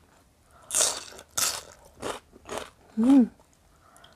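Close-miked crunching bites and chewing of raw bitter melon: about four crisp crunches, the first two the loudest. About three seconds in comes a short rising-and-falling "mm" hum from the eater.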